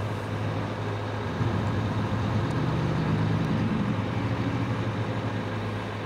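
Steady rumble of a motor vehicle, engine and road noise, with a low hum, swelling slightly about a second and a half in.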